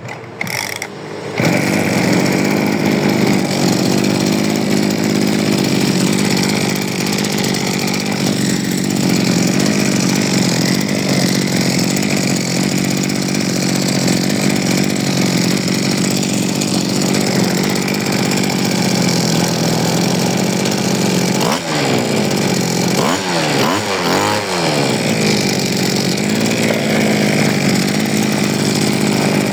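Small petrol engine of a used Japanese brush cutter, freshly repaired, catching about a second and a half in and then running steadily, with a few revs up and down about three quarters of the way through. It starts and runs smoothly.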